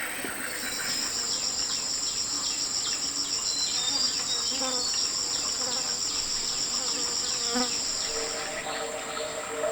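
Insects trilling: one steady high-pitched drone, joined about half a second in by a second fast-pulsing trill that stops near the end.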